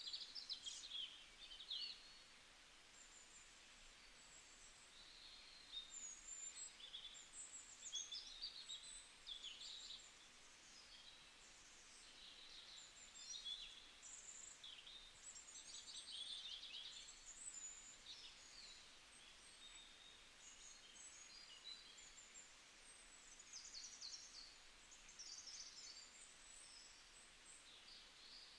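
Faint birdsong: small birds chirping and trilling over a low steady hiss.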